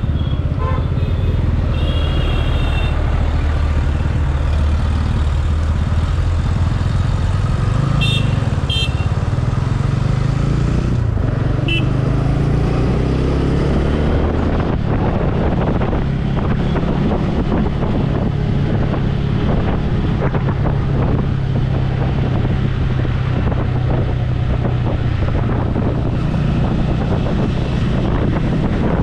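Motorcycle engine running steadily while riding, with wind rushing over the helmet microphone and growing rougher about halfway through. Short high horn beeps from traffic sound a few times in the first half.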